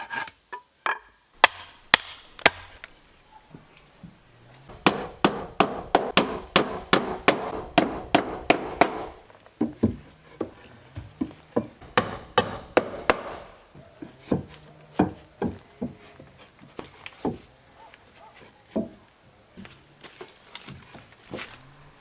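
A hand tool chopping into wood. A run of quick blows about three a second starts about five seconds in, a second short run comes about twelve seconds in, and scattered single strikes follow.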